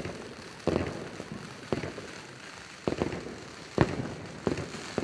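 New Year's Eve fireworks going off: about five sharp bangs at irregular intervals, each with a short echo. The loudest comes a little under four seconds in.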